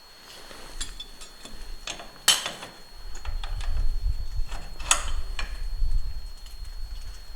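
Steel three-point hitch parts clinking and clanking as the lift arms and pins are worked into place: a run of light metal clicks with two louder clanks, about two and five seconds in. A low rumble comes in about three seconds in.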